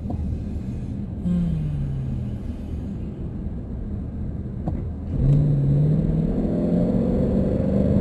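Car engine and road rumble heard from inside the cabin; about five seconds in the engine note rises and grows louder as the car accelerates.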